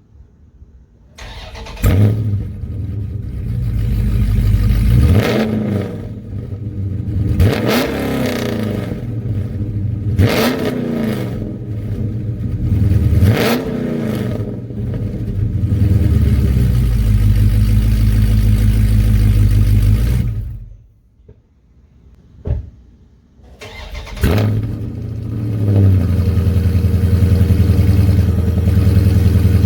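A 2019 Dodge Charger Scat Pack's 392 Hemi V8 exhaust. The engine starts, is revved four times in quick blips, then held steady for several seconds. The sound cuts out about twenty seconds in, the engine starts again a few seconds later and runs steadily with a final rev at the end.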